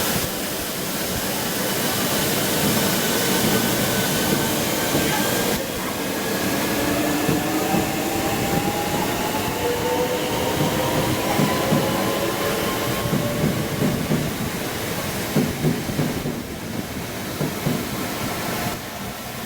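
Passenger train running through the station with a whine that rises slowly in pitch as it gathers speed. Wheels click over the rail joints near the end.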